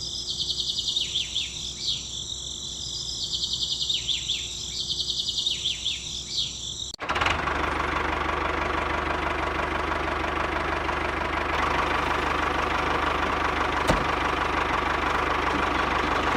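Repeated high chirping, like birds, for about seven seconds. It cuts off abruptly into a steady engine-like running noise with a low hum.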